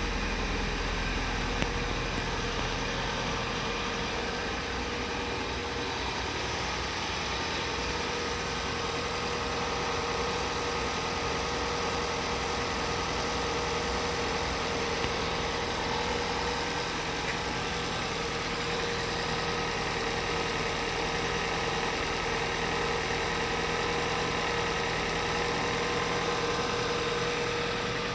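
2015 Kia Forte's 2.0-litre four-cylinder engine idling steadily.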